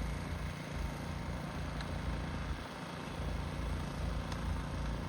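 A vehicle engine running steadily, a low rumble with a faint hum.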